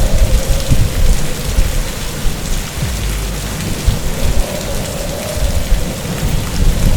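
Typhoon storm: heavy rain pouring down over a deep, continuous rumble, with a wavering wind howl running through it.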